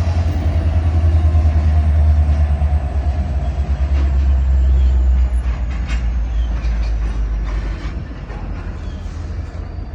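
A train passing a level crossing: a loud low rumble with a few sharp clacks of wheels on the rails around the middle, easing off after about eight seconds.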